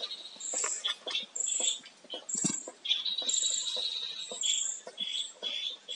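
Birds chirping: short and longer high-pitched chirps repeating throughout, over scattered light clicks.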